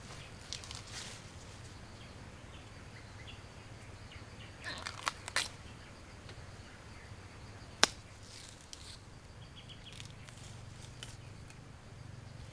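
Elephant grass stalks crackling and snapping as they are handled and broken: short clusters of dry crackles, with one sharp snap a little past the middle that is the loudest sound. A faint steady low hum runs underneath.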